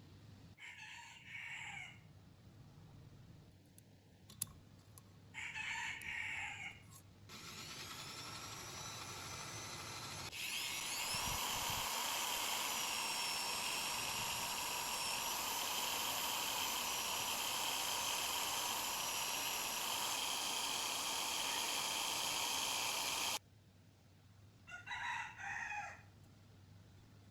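A rooster crows twice, then a small electric power tool spins up with a rising whine in two steps. It runs steadily at speed for about thirteen seconds and stops abruptly, after which the rooster crows again.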